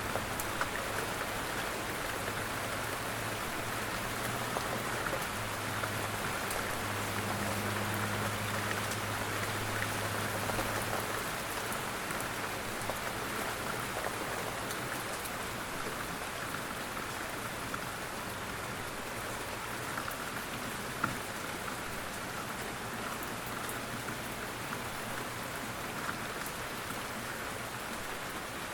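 Steady rain falling, with scattered drop ticks, and a faint low hum through roughly the first third.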